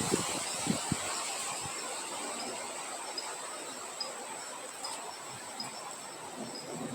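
Steady wind hiss over a night-insect chorus: a continuous high-pitched insect trill with a small cricket-like chirp repeating roughly once a second. A few soft low thumps in the first second or two.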